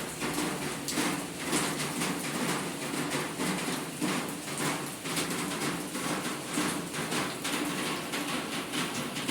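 Steady rain falling, with many irregular taps of drops striking hard surfaces.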